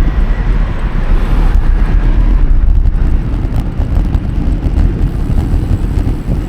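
Wind buffeting the microphone while riding a bicycle: a loud, fluttering low rumble, with outdoor road noise underneath.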